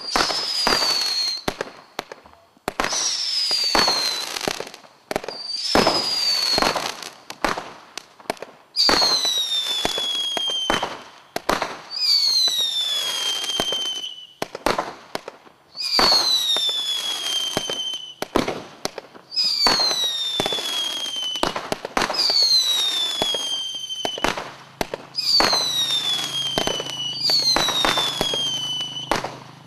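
Global Fireworks 'Rain of Terror' 90-shot barrage cake firing: about every three seconds a shot goes up with a whistle that falls in pitch, among many sharp cracks and bangs.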